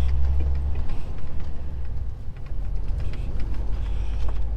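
Truck's diesel engine heard from inside the cab: a steady low drone that drops away about a second in, leaving a rougher low rumble with scattered light ticks and knocks.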